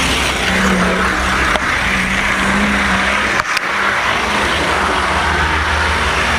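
Model train running along its track, heard from a camera riding on the car behind the engine: a steady rolling rumble and motor hum with a wavering tone, a light click a little after a second in and a brief drop-out about halfway.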